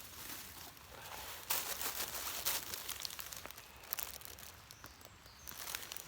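Irregular crackling and rustling, with a louder stretch of it about a second and a half in.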